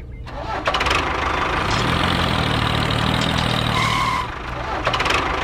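Small engine idling steadily.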